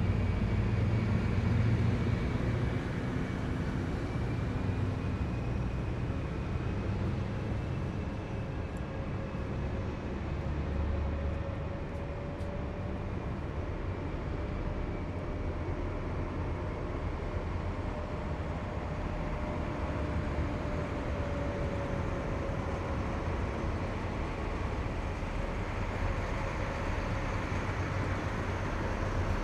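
Heavy military vehicles driving past in a column: a steady low engine and tyre rumble with a drawn-out whine over it. The rumble is loudest in the first two seconds.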